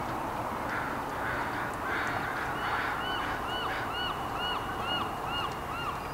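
A bird calling in a rapid series of short, evenly spaced notes, about two a second, growing clearer about halfway through, over a steady outdoor background noise.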